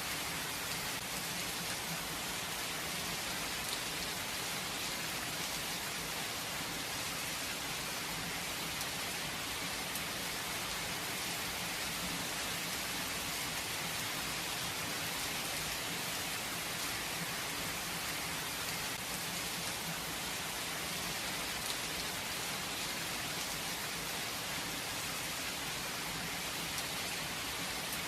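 Steady rain falling, with raindrops pattering on a surface. There is no thunder.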